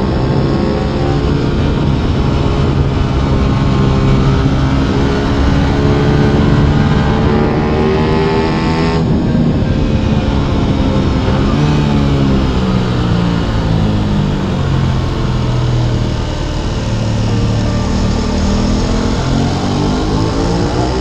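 Aprilia RS 660 parallel-twin engine under way, its revs climbing, cutting off sharply about nine seconds in, then falling and climbing again as the rider works the throttle and gears.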